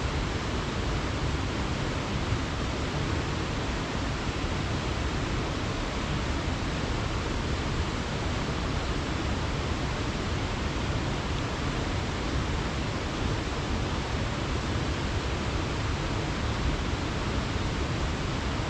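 Waterfall pouring into a pool: a steady, even rush of falling water with no breaks.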